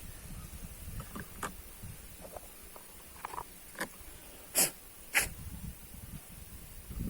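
A scattering of short, sharp clicks and knocks from hands handling something, over a low background rumble. The two loudest come about halfway through. No engine is running.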